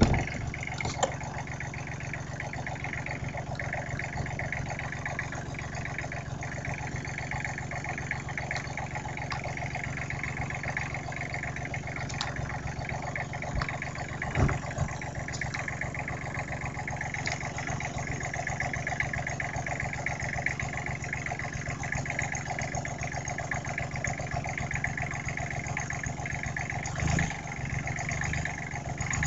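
Freshly rebuilt small diesel engine running steadily at idle, its firing an even rapid beat, still warming up from a cold start. A single knock sounds about halfway through.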